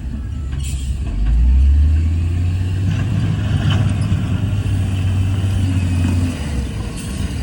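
Heavy diesel earthmoving machinery running with a low, steady engine drone that grows louder about a second in and eases off near the end.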